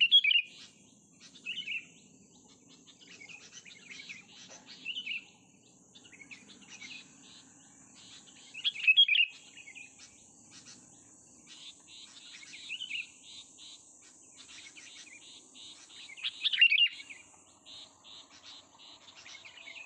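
A young songbird calling in short, sharp chirps, repeated in bursts every few seconds with several louder outbursts. A steady high-pitched insect buzz runs beneath the calls.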